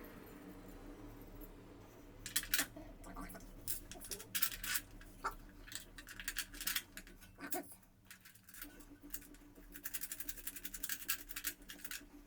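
Router table parts being handled and fitted during assembly: scattered clicks, knocks and scrapes, with a fast run of clicks near the end, over a faint steady hum.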